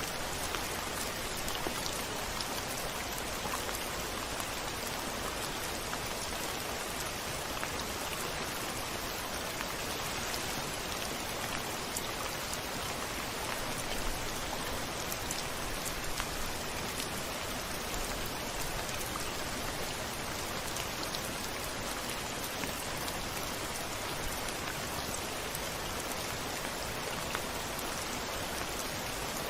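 Steady rain falling on a window glass: an even hiss with scattered drops ticking.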